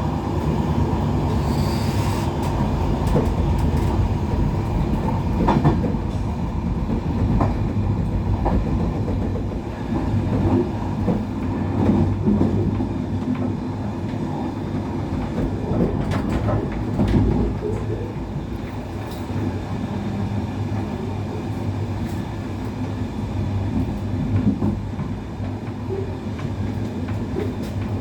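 Passenger train running along the track, heard from inside the carriage: a steady low rumble with scattered clicks and knocks from the wheels on the rails.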